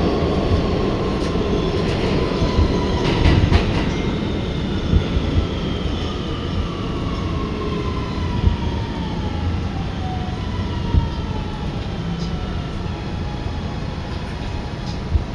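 R211A subway train departing, with a steady rumble and a whine whose several tones slide slowly down in pitch. Scattered clicks and thumps come from the wheels.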